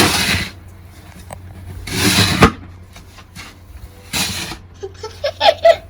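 Snow shovel scraping and scooping through deep snow, three strokes about two seconds apart.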